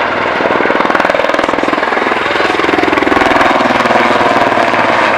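Eurocopter Super Puma helicopter flying a tight display turn, its main rotor giving a rapid, steady thumping of blade slap.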